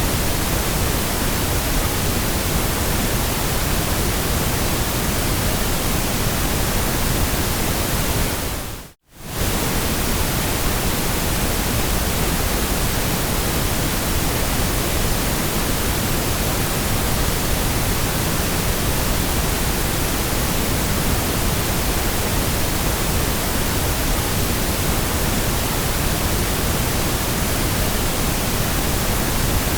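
Steady generated noise, an even hiss spread from deep rumble to high sizzle, briefly fading out and straight back in about nine seconds in.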